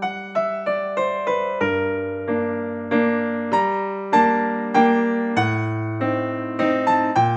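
Background piano music: a gentle electric piano melody of single struck notes over slow-changing bass notes.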